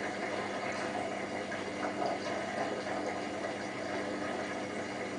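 Hotpoint WT960 washing machine's drain pump running with a steady hum as it empties the drum at the end of the main wash's short cool down, before the first rinse.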